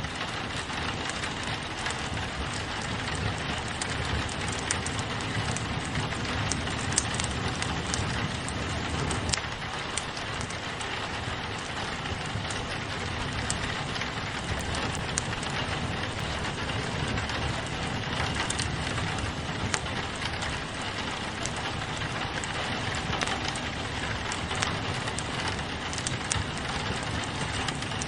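Steady rain on a window pane with a wood fire crackling, scattered sharp pops and snaps over the even hiss of the rain.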